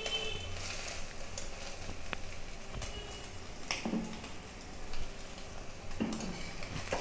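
Egg omelet frying in hot mustard oil in a kadai, a steady sizzle, with a few sharp knocks and scrapes of a metal spatula or spoon about four and six seconds in.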